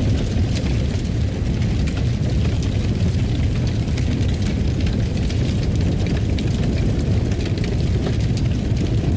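Fireplace fire burning with a steady low rumble and frequent small crackles and pops scattered throughout.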